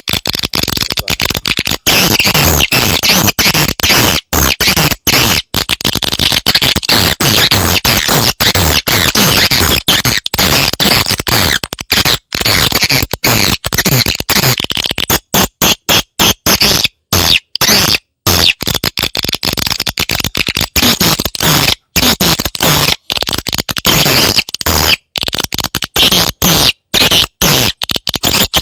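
Recorded swiftlet calls: a dense, buzzy twittering and chattering broken by many short dropouts. This is a lure-call track played to draw edible-nest swiftlets into a nesting house.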